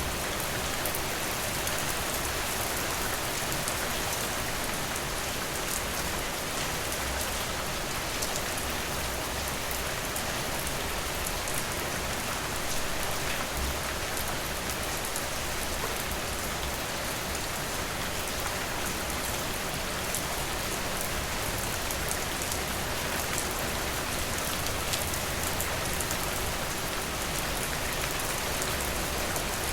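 Steady rainfall with a dense, even hiss, and many individual drops ticking and tapping on surfaces throughout.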